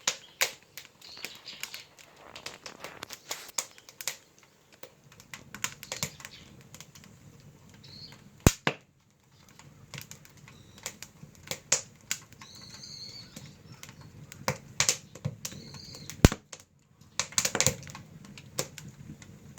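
Firewood burning in an agungi, the traditional Korean wood-fired firebox that heats an ondol floor: irregular crackling with sharp pops, two of them much louder than the rest.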